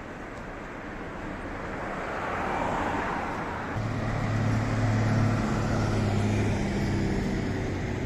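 Vehicle noise: a rushing sound swells over the first few seconds, then a steady low engine drone sets in about four seconds in.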